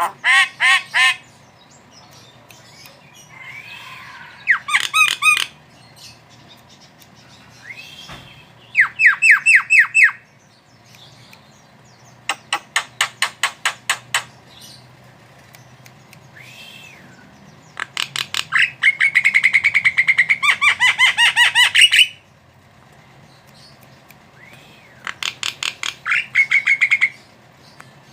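Javan myna calling in active, vigorous form, in about six bouts of fast, harsh, repeated chattering notes. The longest bout comes past the middle. A few short arched whistles fall between the bouts.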